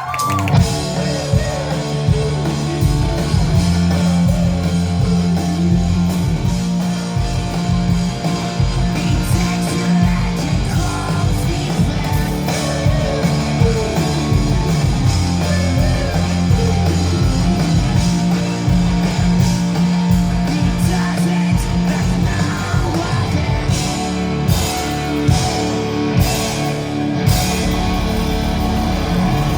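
Rock band playing live: electric guitars, bass and drums in a loud, full, steady rock song.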